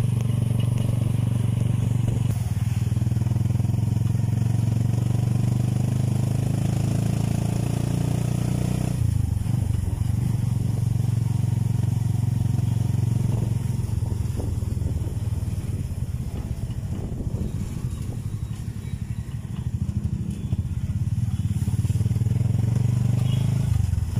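Motorcycle engine of a passenger tricycle running while it drives, heard from inside the sidecar as a loud steady drone. Its note changes abruptly about nine seconds in, dips around three-quarters of the way through, and picks up again near the end.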